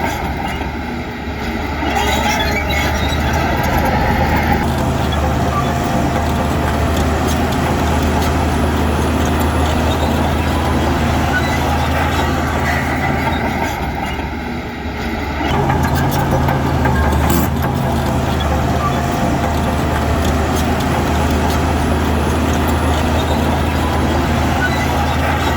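Heavy diesel engine of earthmoving machinery running steadily. The level dips briefly about a second in and again just past halfway, then picks back up.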